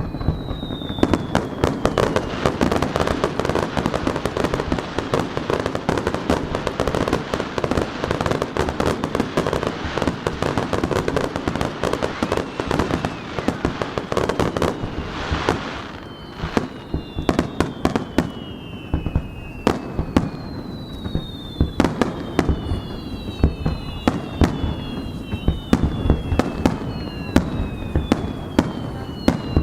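Fireworks display finale. For about the first half a dense barrage of bangs and crackling runs together; then come separate sharp bursts among many whistles that fall in pitch.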